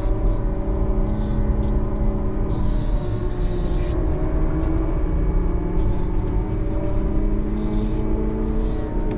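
Snow plow truck's engine running steadily with a low rumble.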